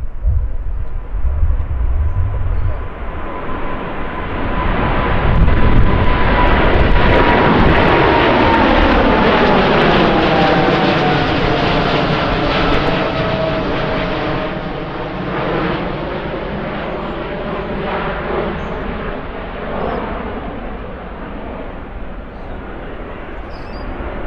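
Jet airliner passing close by: its engine whine slides down in pitch as it goes past. The sound builds to a loud peak about a third of the way in, then slowly fades as the jet moves away. Wind rumbles on the microphone at the start.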